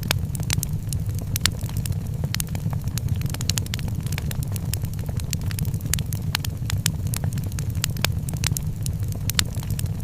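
Wood fire crackling in a fireplace, with frequent sharp, irregular pops and snaps over a steady low rumble.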